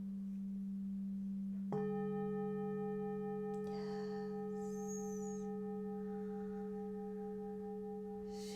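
Singing bowls ringing: a low bowl hums steadily, and about two seconds in a second, higher bowl is struck and rings on with a slow pulsing in one of its overtones.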